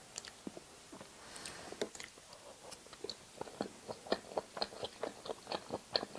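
Close-miked chewing of a mouthful of nigiri sushi: soft, wet mouth clicks and smacks, sparse at first, then quick and regular, about three or four a second, from about three seconds in.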